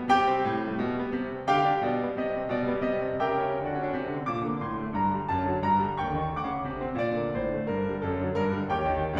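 Classical piano music: a solo piano playing a flowing run of notes with struck attacks, some chords ringing and decaying.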